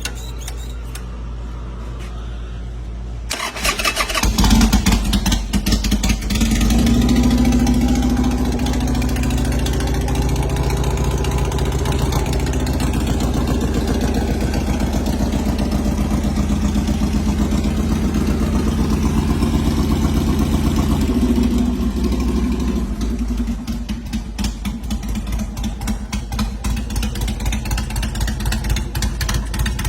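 Harley-Davidson Sportster V-twin, a 2006 883R motor bored out with an S&S 1200 Hooligan kit, picking up sharply about three seconds in and revving, then running steadily. It drops back about twenty seconds in to an uneven, pulsing idle.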